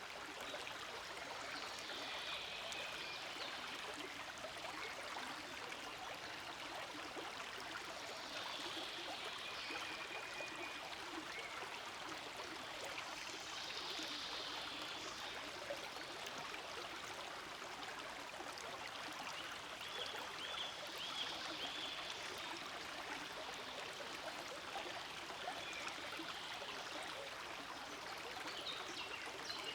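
A forest stream flowing steadily, water running and gurgling over rocks in an even rush, with a few brief high-pitched chirps here and there.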